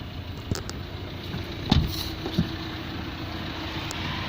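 2.0-litre twin-turbo diesel engine of a VW Amarok idling steadily, with a sharp knock a little under halfway through and a smaller one just after.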